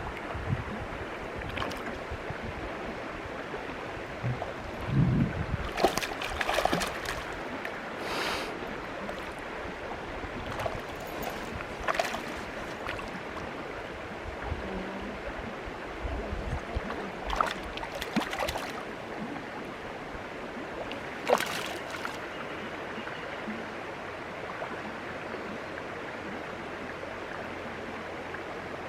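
Stream water flowing steadily, with a few short splashes or knocks about six seconds in, near the middle and around eighteen and twenty-one seconds.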